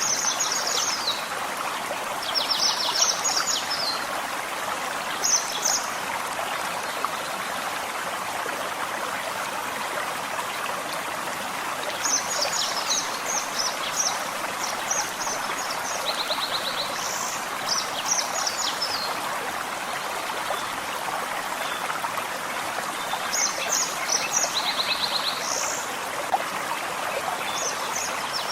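A small forest stream running and babbling steadily, with a songbird singing short, high phrases of quick chirps and trills on and off over it.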